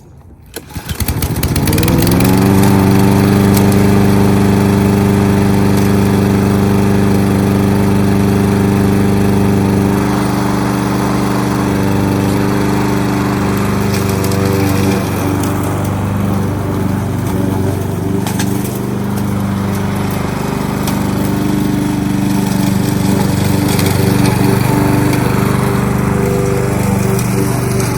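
Kohler XT-675 single-cylinder engine on a Yardworks push lawnmower starting about half a second in and rising quickly to running speed. It then runs steadily, and from about ten seconds in its pitch wavers and the running is less even.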